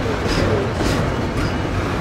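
Rear of a double-stack container train rolling past: the well cars' steel wheels running on the rails in a steady rumble, with a light click about twice a second.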